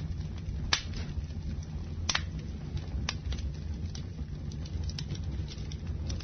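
Campfire burning with a steady low rumble, broken by scattered sharp crackles and pops from the wood. The loudest pop comes a little under a second in, with others around two and three seconds.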